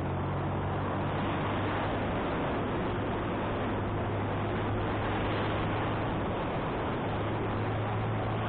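Motorcycle riding uphill: wind rushing over the microphone, with the engine running steadily underneath as a low hum.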